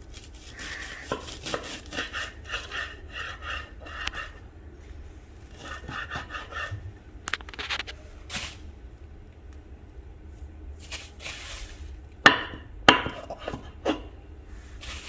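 Rustling and rubbing as a bunch of fresh dill is handled on a cutting board, then three sharp knife strokes on the board near the end as the roots are cut off.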